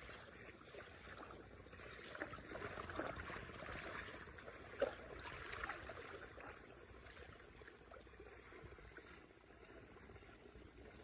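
Water trickling and splashing, a little louder in the middle, with one short sharp sound just before five seconds in.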